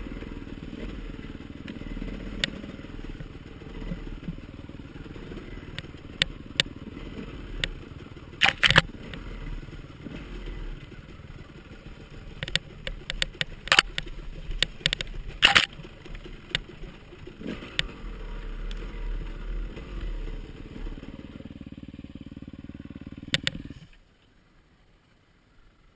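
Dirt bike engine running, with scattered sharp knocks and clatter over it, loudest in a few strikes past the middle; the sound cuts off suddenly near the end.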